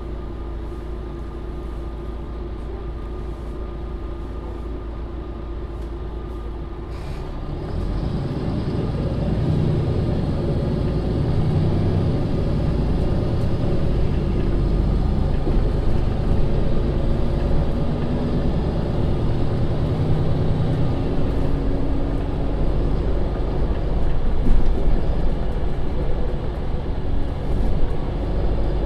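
MAN Lion's City (NL 283) city bus idling steadily, then a brief air hiss about seven seconds in, after which its diesel engine gets louder as the bus pulls away, the engine note shifting in steps under load.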